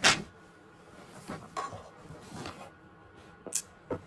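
A few light clicks and knocks of small hard objects being handled: a loud one at the start, softer scattered ones in the middle, and two short sharp clicks near the end.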